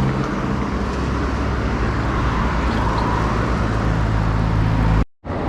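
Road traffic noise with a motor vehicle engine running steadily close by, a low hum under a wash of road noise. The sound cuts out for a moment about five seconds in.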